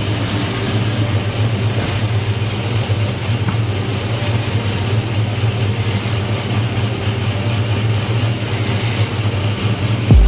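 Car V8 engine idling steadily, a constant low hum with no revving.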